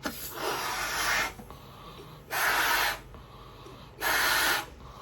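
A balloon being blown up by mouth: three puffs of breath into it, the first the longest, with short pauses between.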